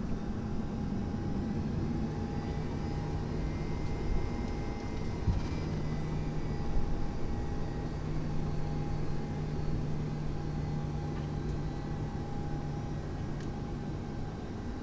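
Cabin noise inside a Boeing 757-200 at a window seat: the steady hum and low rumble of the running jet engines and airframe, with a few brief thumps about four to seven seconds in.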